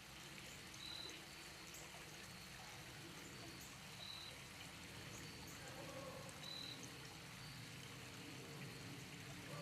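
Faint outdoor ambience: a steady hiss of trickling water, with short high chirps repeating every two to three seconds.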